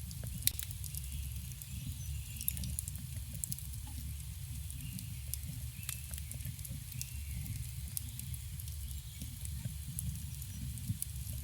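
Campfire crackling: scattered sharp pops and snaps from the burning wood over a steady low rumble of the flames.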